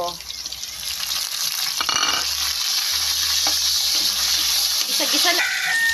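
Tomato wedges frying in hot oil in a wok, a steady sizzle that grows louder about a second in, with a spatula stirring them through the pan.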